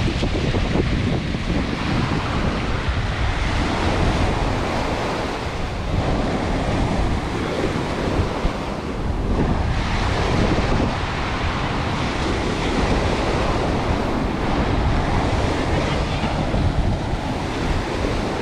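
Ocean waves breaking and washing on a beach, with wind buffeting the microphone in a low rumble.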